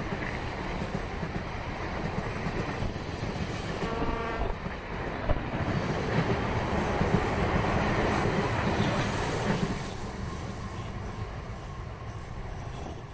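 Passenger train hauled by a diesel locomotive passing close by: a steady rumble with wheel clatter on the rails, and a short horn blast about four seconds in.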